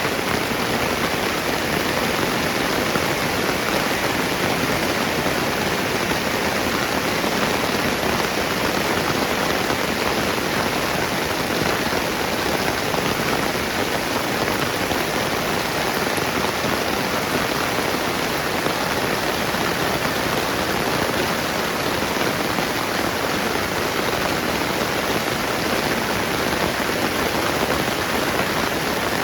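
Steady rain falling, an even unbroken hiss of drops on wet surfaces.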